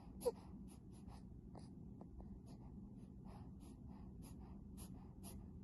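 Faint irregular scratching clicks, a few a second, with one short squeak that falls in pitch about a third of a second in, like a baby's squeal.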